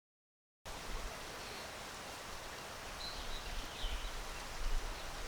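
After a moment of silence, outdoor ambience starts: a steady hiss with a few short bird chirps about three seconds in, and low gusts of wind rumbling on the microphone that grow toward the end.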